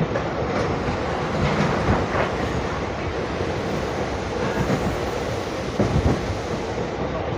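Intercity express passenger train running at speed, heard from inside the coach: a steady rumble and rattle with irregular wheel knocks over the rail joints, the loudest about six seconds in.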